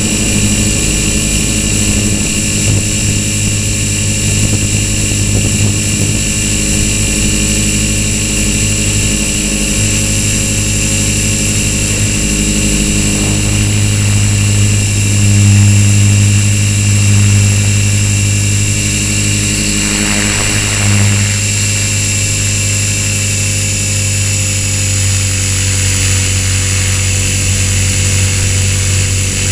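Walkera V450D01 electric RC helicopter in flight: the steady hum of its rotor blades with the high whine of its electric motor, swelling slightly about halfway through.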